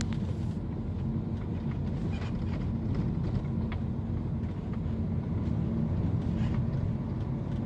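Cabin noise of a 2011 Mini Countryman on the move: a steady low road and drivetrain rumble, broken by a few sharp creaks and crackles from the rear suspension. The noise comes from worn rear anti-roll bar (stabilizer) link bushings.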